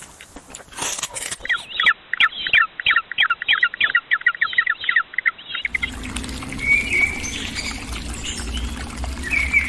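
A bird giving a rapid series of short, high chirps, about five a second, for about four seconds. Partway through, this changes abruptly to a low steady hum with a few scattered bird calls above it.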